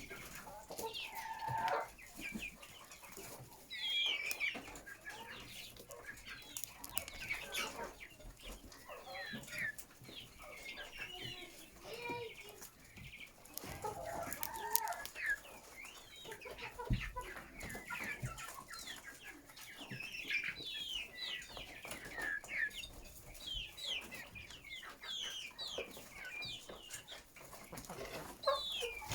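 A large flock of chickens clucking and calling, many overlapping short calls at once.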